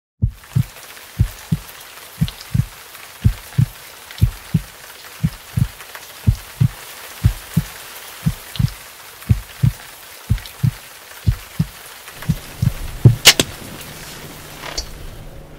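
Heartbeat sound effect, a slow double thump about once a second, over a soft steady hiss of rain. Near the end the beats stop, a low hum comes in, and a single loud sharp crack is heard.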